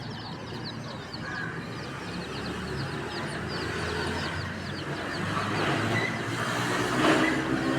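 A brood of baby chicks peeping continuously, many short high chirps falling in pitch, several a second, over a low rumble. A louder rushing noise swells up about five seconds in and peaks near the end.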